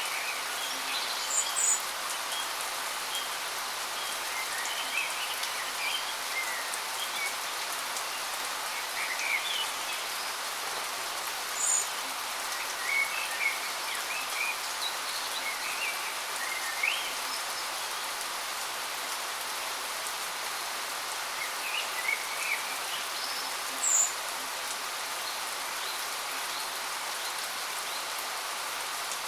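Steady rushing water of a waterfall, with birds giving short chirps here and there over it.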